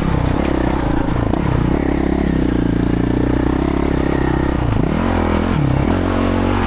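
Dirt bike engine running under load on a trail, its revs held fairly steady at first, then dropping and rising with the throttle several times near the end.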